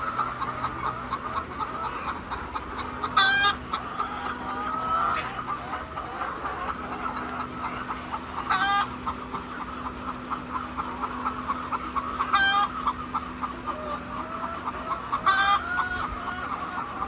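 A flock of laying hens clucking continuously, with a short loud squawk standing out about every three to four seconds, over a steady low hum.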